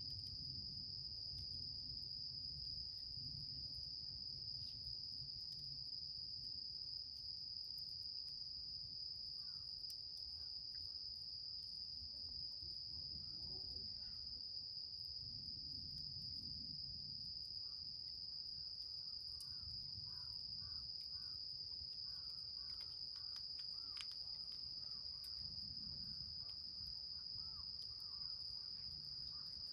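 Crickets trilling steadily in one continuous high note, over a low rumbling background, with a few faint crackling ticks near the end.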